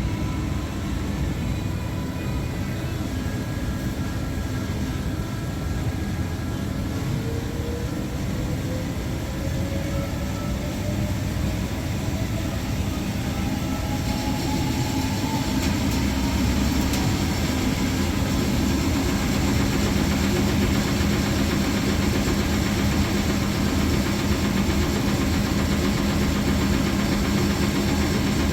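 Electrolux washing machine spinning up for its first extraction: the motor's whine rises steadily in pitch as the drum gathers speed, then the machine settles into a louder, steady hum at full spin speed.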